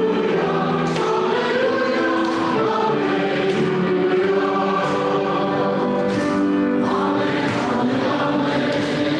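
A church choir and congregation singing a slow hymn, holding long notes.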